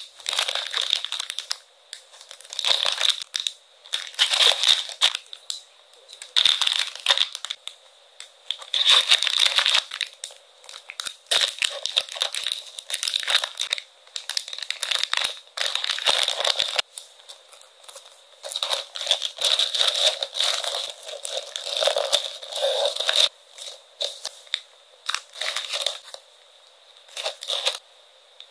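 Packaging being handled while orders are packed: crinkling and rustling in irregular bursts of a second or two, with brief pauses between them.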